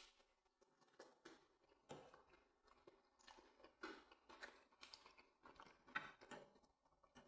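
A person faintly chewing a mouthful of homemade chips, with irregular soft mouth noises and small clicks.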